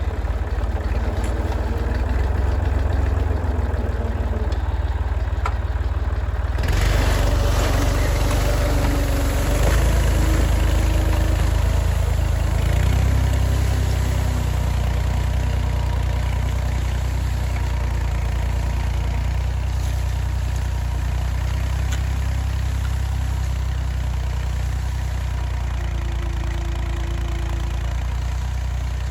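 Massey Ferguson 50X tractor engine running, likely as the repaired hydraulic pump is tried. It idles steadily, gets louder about seven seconds in with shifts in pitch over the next few seconds, then settles and slowly eases.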